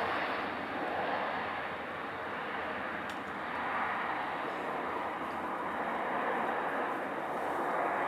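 Jet airliner engine noise: a steady rushing sound that swells and eases slightly.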